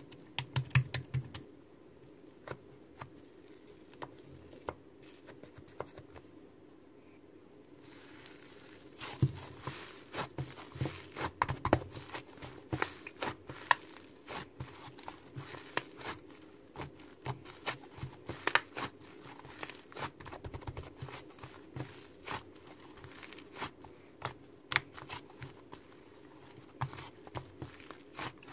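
Slime being squeezed and stretched by hand, making quick little pops and crackles. The pops are sparse at first and come thick and fast from about eight seconds in.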